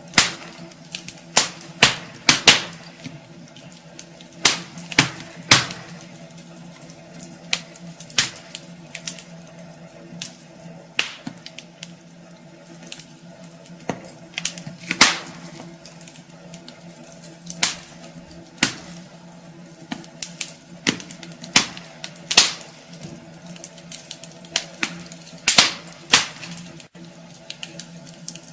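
Wood fire burning in a fireplace, crackling with irregular sharp pops and snaps of varying loudness over a faint steady low hum.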